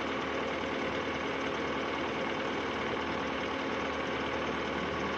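Fiat-Hitachi excavator's diesel engine running steadily.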